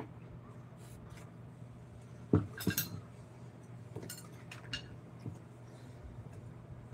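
One sharp knock and a few light clinks of hard objects being handled, with scattered faint ticks afterwards, over a steady low hum.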